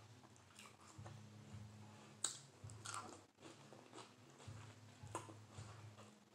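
Faint close-up chewing of a mouthful of romaine lettuce wrap, with a few sharp, crisp crunches.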